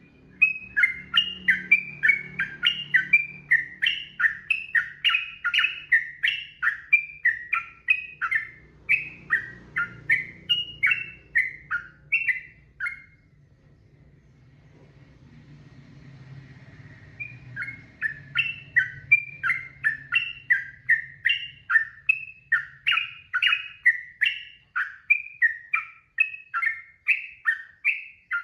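Sooty-headed bulbul (trucukan) singing a long, rapid run of short warbling notes, two to three a second. It breaks off about halfway for a few seconds, then starts up again and carries on.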